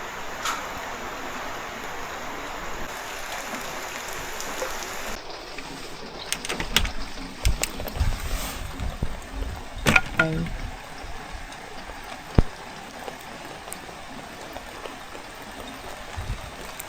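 Steady rain falling, an even hiss. About five seconds in the sound changes to a lower hiss with scattered thumps and sharp clicks.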